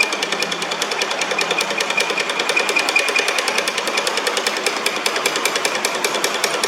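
Metal lathe running with a rapid, even ticking over a faint steady whine.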